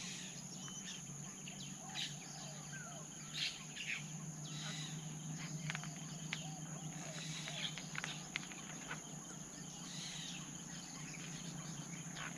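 Forest ambience: a steady high-pitched insect drone with many short, scattered bird chirps over a low steady hum.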